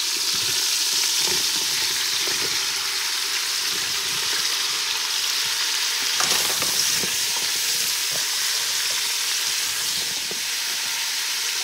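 Chopped vegetables frying in hot oil in a stainless steel pot: a steady sizzle as they are stirred with a wooden spatula, with a few light knocks of the spatula.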